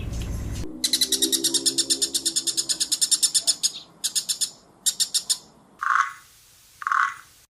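Animal calls: a rapid, high-pitched trill for about three seconds, then two short trilled bursts, then short croaking calls about once a second.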